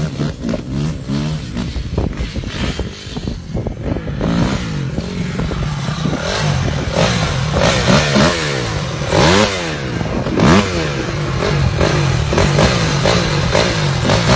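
Motorcycle engine running and revving up and down repeatedly, with clattering and scraping knocks throughout.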